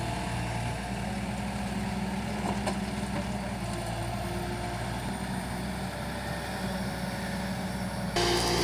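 Heavy-machinery diesel engine running steadily at idle. Near the end the sound abruptly becomes louder and brighter.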